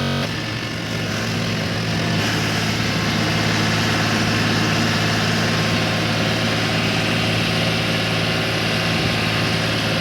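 A tractor's diesel engine running at a steady speed, a continuous low drone with a hiss above it.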